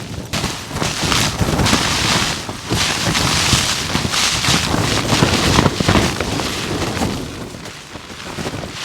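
Gale-force wind buffeting a Hilleberg Akto tent, the fabric flapping and rattling in gusts that ease off near the end.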